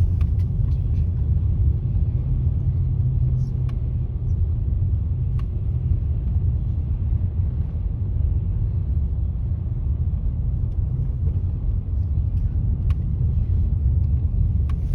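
Steady low rumble of a car driving on snowy roads, heard from inside the car, with a few faint ticks.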